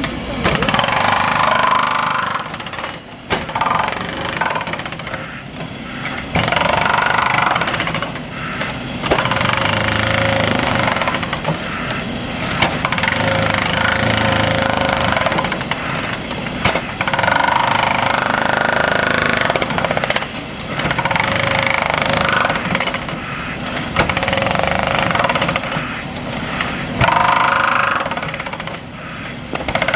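Pneumatic breaker hammering into tarmac in bursts of a few seconds, stopping briefly between bursts.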